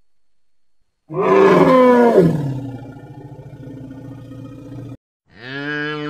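Elephant call: a loud roar that falls in pitch, starting about a second in, then trails off into a lower, pulsing rumble for a couple of seconds. Near the end a cow starts mooing.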